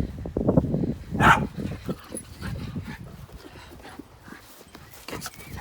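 Miniature schnauzer barking while playing with a ball: a run of short sounds in the first two seconds, the loudest a little over a second in, then quieter.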